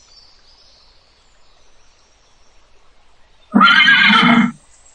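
A horse whinnies once, a loud call about a second long, starting about three and a half seconds in.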